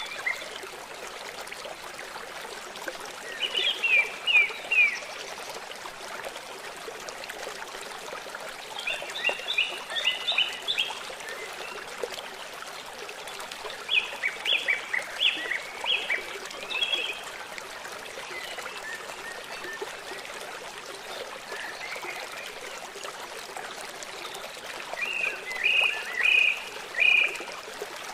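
A songbird singing short phrases of a few quick high notes, four times, over a steady trickling stream.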